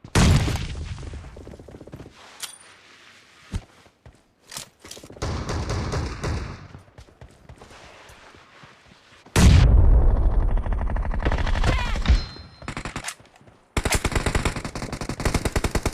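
Video-game gunfire in a team shooter match: a sharp blast at the start and scattered shots, then a loud, deep burst of fire lasting a couple of seconds from about the middle. Rapid automatic fire follows near the end.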